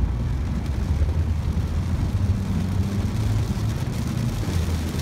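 Heavy rain on a moving Ford Focus, heard from inside the cabin: a steady wash of rain over the low drone of the engine and tyres on the wet road.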